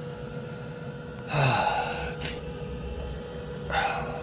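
A man lets out a heavy sigh about a second in and another breath near the end, over the steady hum of a diesel air heater running on low power.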